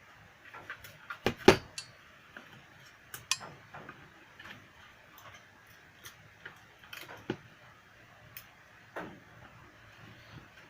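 Irregular clicks and light knocks of small hard parts and tools being handled during fiddly repair work, with one louder knock about a second and a half in.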